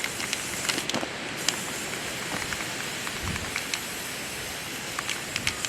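Aerosol can of chrome spray paint spraying with a steady hiss, with scattered small clicks.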